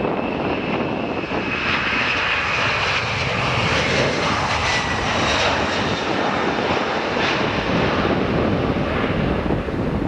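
Jet airliner's engines running as it passes, a loud steady rush with a high whine that falls in pitch over the first few seconds.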